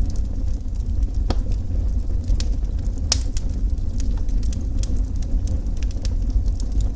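Wood fire burning with a steady low roar and scattered sharp crackles and pops, the loudest pops about a second and three seconds in.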